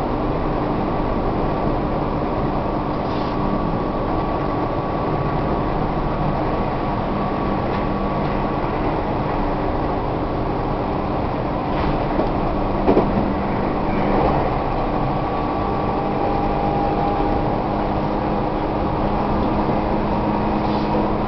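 Tobu 1800 series electric train running at speed, heard from inside a passenger car: a steady rumble with a constant hum, and a few sharp clacks about two-thirds of the way through.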